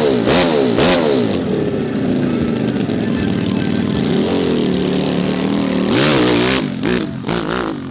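Modified hill-climb dirt bike engine revving hard, its pitch rising and falling again and again as the throttle is worked, with a loud high rev about six seconds in and a few short blips near the end.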